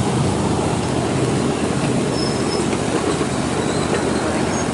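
Train wheels rolling on the rails, heard from on board: a steady low rumble, with a faint high wheel squeal about two seconds in.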